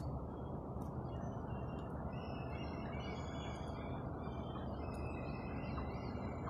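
Small birds chirping and singing in short, high phrases, thickest in the middle of the stretch, over a steady low background rumble.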